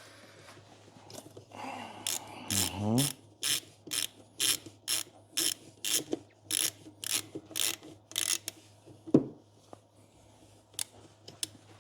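Hand ratchet tightening screws: about ten quick ratcheting strokes at roughly two a second, followed by a single knock.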